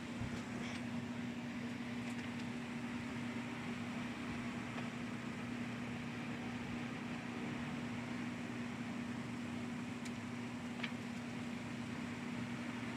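Kolin RCD3 air conditioner running: a steady hum with an even rush of fan air, and a couple of faint ticks near the end.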